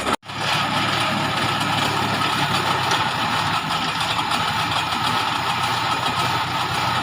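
Tractor engine running steadily at an even speed, after a brief cut-out just at the start.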